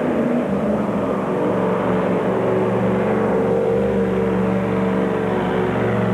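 Mini-rod pulling tractor's engine running flat out under load as it drags the weight-transfer sled down the track, its pitch holding fairly steady after a slight dip at the start.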